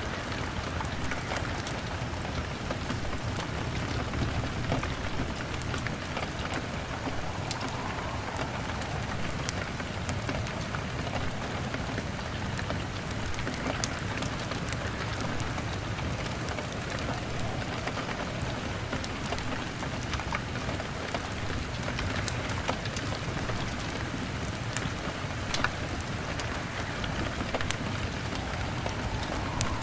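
Steady rain pattering on a window pane, with a low rumble and a log fire crackling in scattered sharp clicks.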